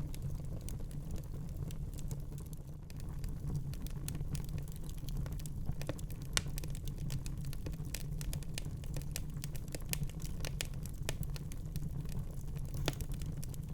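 Fireplace fire crackling: a steady low rumble of the flames under a scattering of sharp pops and snaps, with two louder pops about six and thirteen seconds in.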